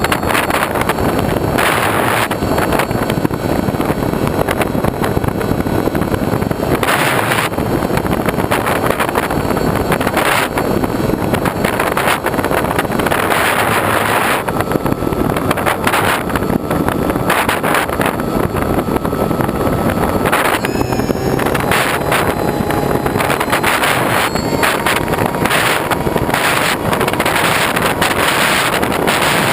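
Loud, steady rushing of wind over an action camera's microphone, surging and easing every second or so.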